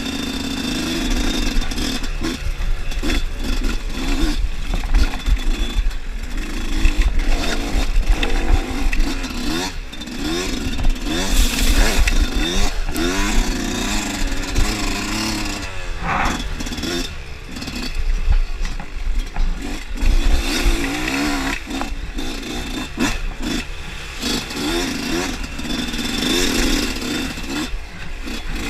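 Dirt bike engine being ridden hard, its revs rising and falling again and again every second or two, over a steady low rumble.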